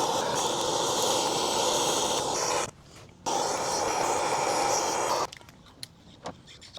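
Torch flame burning with a steady hiss in two stretches of about three and two seconds, with a short break between, heating a stuck bolt so it can be worked loose.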